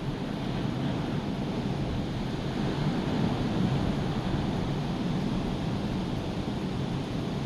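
Rough, hurricane-driven sea surf washing steadily with no break, with wind noise on the microphone.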